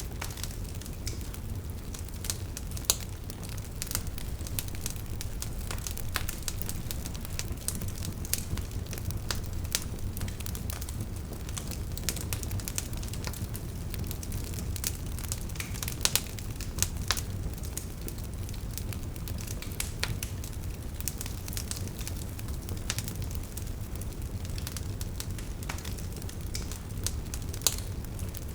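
Burning wood logs crackling, with frequent sharp pops and snaps over a steady low rumble of the flames.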